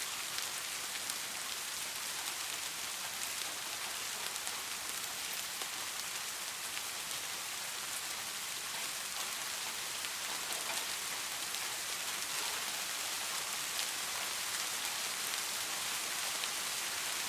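Steady rain falling, a dense even hiss with many small drop patters on a surface.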